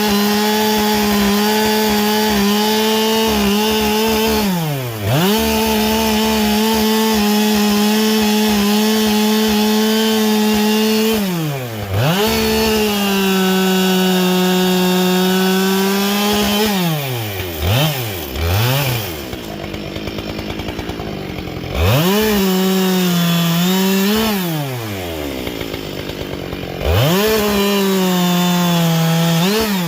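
Husqvarna 572XP two-stroke chainsaw with a carbide saw chain running at full throttle, presumably cutting wood. Several times the revs fall away as the throttle is let off, sometimes to a low idle, and are quickly brought back up.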